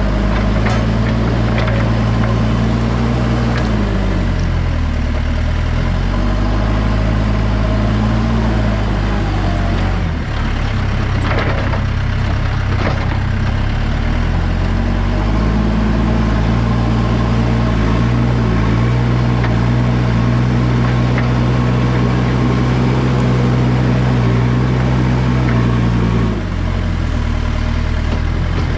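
Backhoe engine running under work. Its speed rises and falls several times as it works and drops near the end, with a few brief rough noises midway.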